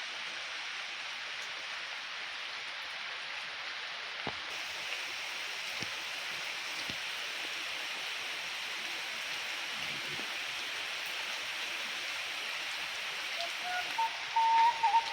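Heavy rain falling, a steady, even hiss. Near the end a steady whistle-like tone comes in over it.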